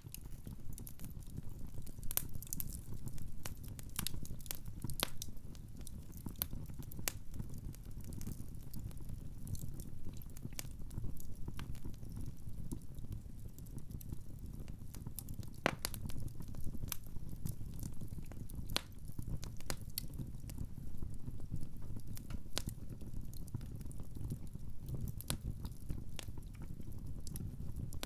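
Wood fire crackling in a fireplace: irregular sharp pops and snaps over a low, steady rumble of burning logs.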